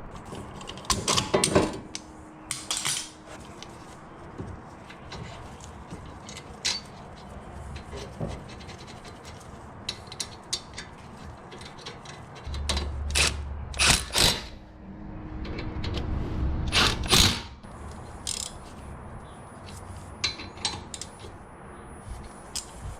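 Tools and metal brake parts clicking and clanking during a brake job, with a few louder clanks and a power tool running for about two seconds around the middle.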